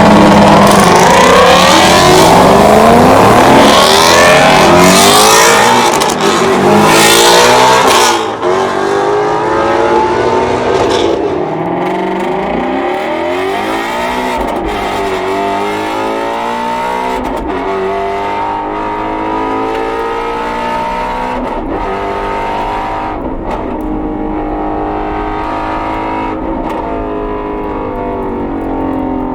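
Shelby GT350R's flat-plane-crank 5.2-litre V8 driven hard on track, its pitch climbing and dropping again and again as it revs up and changes gear. Very loud for the first eight seconds or so, then somewhat quieter.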